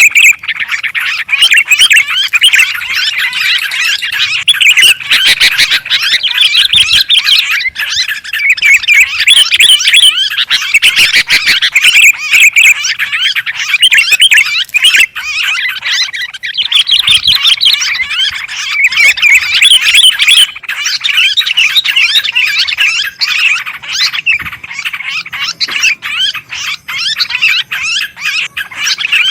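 Sooty-headed bulbuls (kutilang) and yellow-vented bulbuls (trucukan) chattering noisily in a dense, unbroken chorus of quick overlapping calls. This is agitated calling of the kind played as a lure to draw in other birds.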